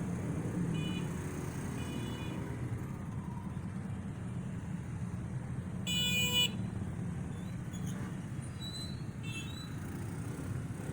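Vehicle horns tooting over a steady low rumble of parade cars and motorcycles. One loud honk of about half a second comes about six seconds in, with shorter, fainter toots near the start and again near the end.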